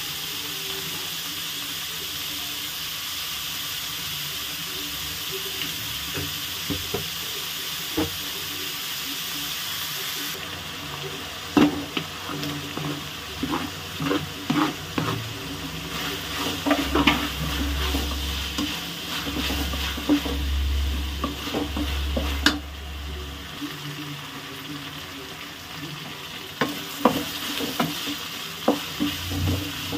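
Chopped onions and green chillies sizzling in an aluminium kadai, with a steady hiss. From about ten seconds in, a wooden spatula stirs them, scraping and knocking sharply against the pan many times.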